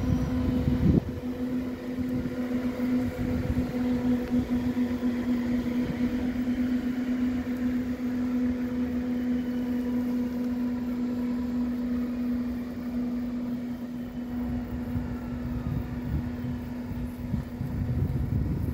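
Hessische Landesbahn electric multiple unit rolling slowly past, with a strong steady droning hum over the low rumble of its wheels and faint whines gliding in pitch.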